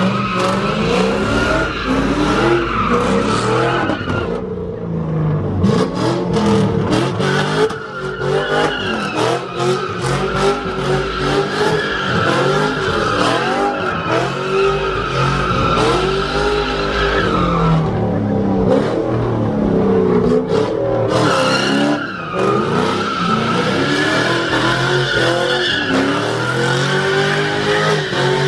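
A car's engine revving up and down over and over while its tyres squeal in long skids, the kind of sound a car makes sliding sideways at a street takeover.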